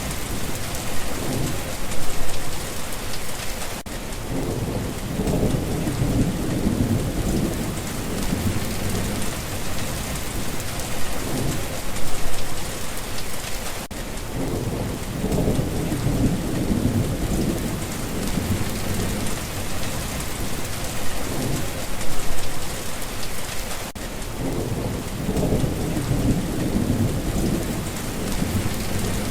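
Steady rain hissing, with low rumbles of thunder swelling and fading about every ten seconds; the same stretch of rain and thunder repeats at that spacing, as a loop.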